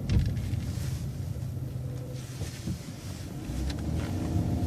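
City transit bus running slowly through a right turn, heard from inside as a steady low engine and road rumble. It grows louder near the end.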